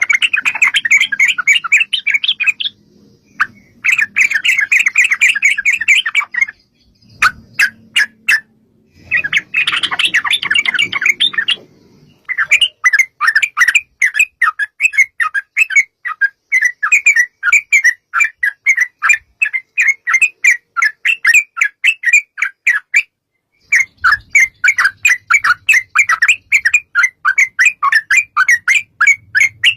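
Yellow-vented bulbul (trucukan) singing long, fast runs of short chattering notes in several bouts with brief breaks between them. A few sharp clicks come between bouts about a third of the way in.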